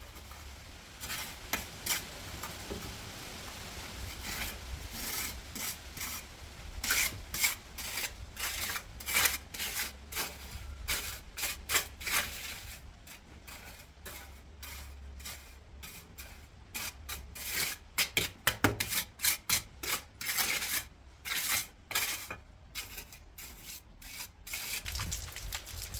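Repeated hand scraping or rubbing strokes of a tool on a rough hard surface, in quick uneven runs that come faster and closer together in the second half.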